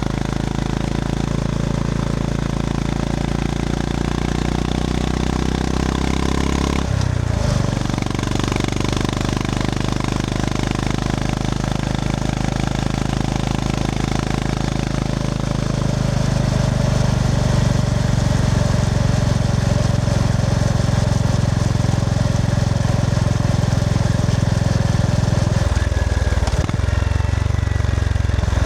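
Honda GB350S's air-cooled single-cylinder engine running steadily under way. The engine note breaks off briefly twice, about seven seconds in and near the end, and gets a little louder from about the middle on.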